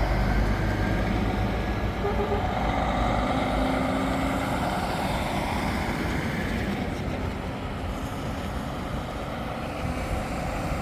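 A heavy truck's diesel engine running as the truck drives by, a steady low rumble that eases slightly and then builds again near the end.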